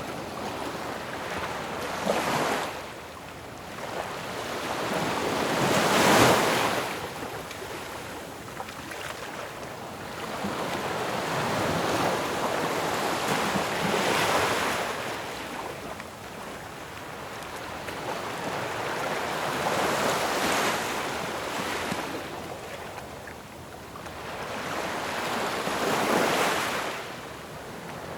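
Ocean waves breaking on a shore, each wave swelling to a loud crash and washing back about every six seconds over a steady rush of surf.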